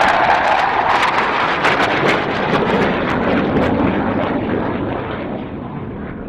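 Low-flying military jet passing by: a loud roar with crackling that drops in pitch and slowly fades as it moves away.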